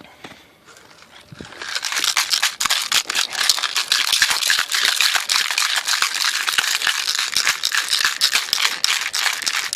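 Lawn mower gas tank being shaken hard with a handful of loose scrubbing material and soapy water inside, a dense fast rattle starting about a second and a half in, to scour old fuel residue off the inside of the tank.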